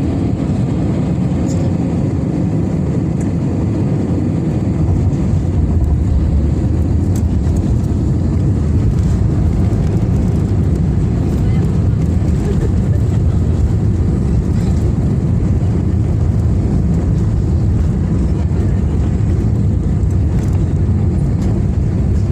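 Airbus A320neo's landing noise: a loud, steady low rumble that grows louder about four seconds in and then holds.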